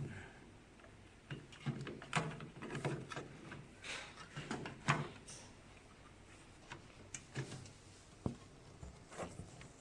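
Small clicks and knocks of a printer's ink pump assembly being handled and fitted into place, busiest in the first five seconds and sparser after.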